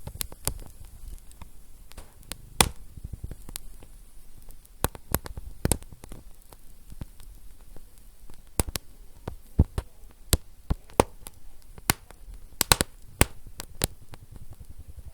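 Fire crackling: irregular sharp pops and snaps, a few much louder than the rest, over a low steady rumble.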